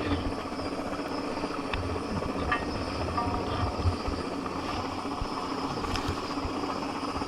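Crane helicopter hovering close by: a steady drone from the rotor and turbine, with a held whine over it and a few faint knocks from the work beneath it.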